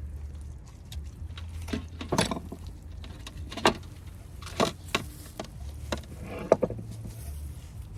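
Eating and food-handling noises: irregular sharp clicks, crackles and crunches, the loudest about two, three and a half, four and a half and six and a half seconds in, over a steady low hum.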